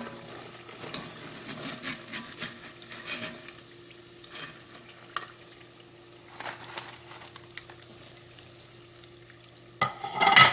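Breadfruit slices sizzling in hot oil in a cast-iron pot, with a wire skimmer scraping and clinking against the pot as the golden slices are lifted out. A louder clatter comes near the end.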